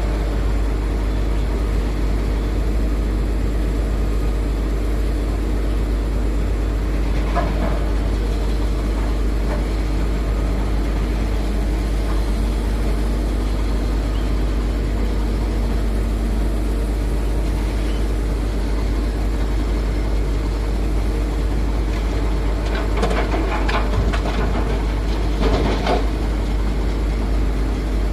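Heavy diesel machinery, an excavator working beside a dump truck, running steadily with a low hum. Brief louder noisy bursts come about 7 seconds in and again near the end, typical of the bucket and its load striking and tipping into the truck bed.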